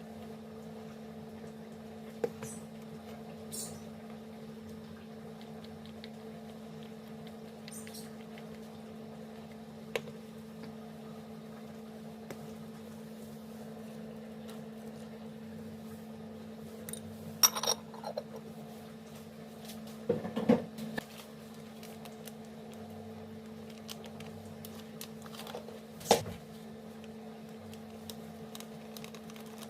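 Kitchen food-preparation handling sounds: a few scattered light knocks and clatters, the loudest a cluster of short knocks around two-thirds of the way in, over a steady low electrical hum.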